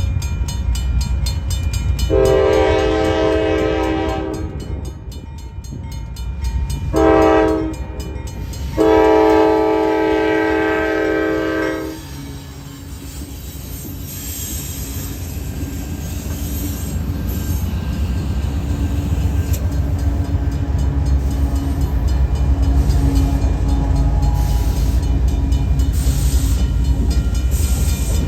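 Diesel freight locomotive's multi-chime air horn sounding three blasts, long, short, long, over the low rumble of the train. After the horn the engine and rolling rumble grow steadily louder as the train draws near.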